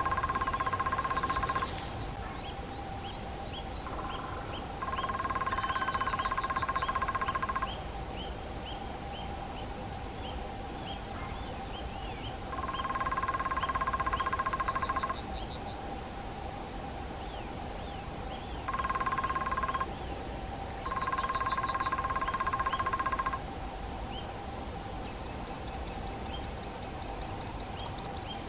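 Lesser spotted woodpecker drumming: six rolls of one to three seconds each, a few seconds apart, with small birds chirping throughout and a quick run of high notes near the end.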